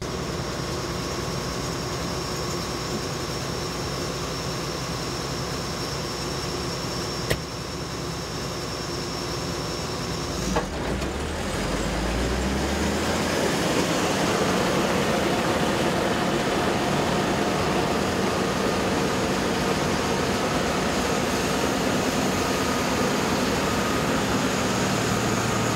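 Heavy harvest machinery running steadily, with a couple of brief clicks early on and a rise in loudness about halfway through.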